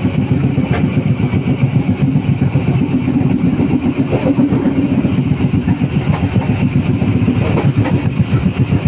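Steady low rumble inside a moving passenger train carriage, the noise of the wheels and running gear on the rails, with a few faint ticks over it.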